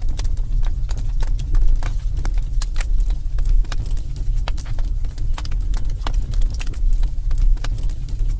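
Wood fire crackling in a fireplace: sharp, irregular pops and snaps several times a second over a steady low rumble.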